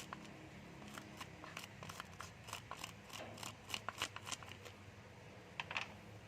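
Irregular sharp clicks and scrapes of small parts being handled and worked on by hand during ignition servicing, over a faint low hum.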